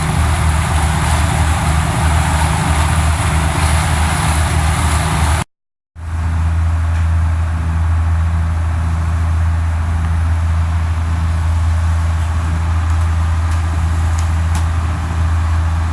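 Engine of a 50-foot Marine Trader trawler under way, a steady low drone with wind and water rushing over it. About five and a half seconds in, the sound cuts out briefly and returns with the engine drone stronger and the rushing softer.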